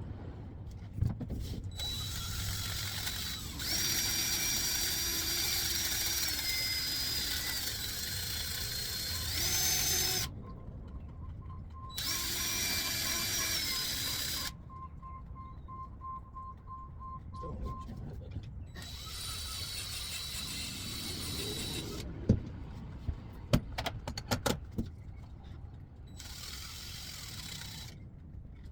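Power drill spinning a wire wheel in several short runs, its motor whine shifting in pitch as the bristles scrub rust and dirt off a metal part to clean the ignition coil's ground connection. A few sharp metallic clicks and knocks come between runs.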